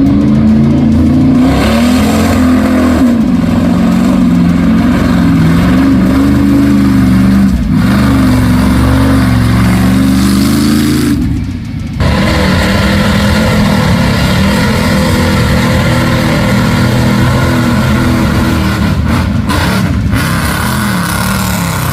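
Mud bog truck engine running hard at high revs, its pitch rising and falling as the throttle works, with a brief break about eleven seconds in.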